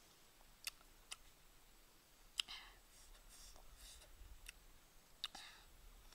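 Faint mouth sounds of someone biting and chewing small crisp green fruits: a few sharp clicks, the loudest about two and a half seconds in, two of them followed by a short crunch.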